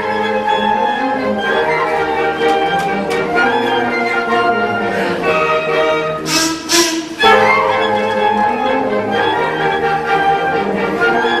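School concert band playing a piece live, holding sustained ensemble chords, with a brief noisy swell reaching high up about six and a half seconds in.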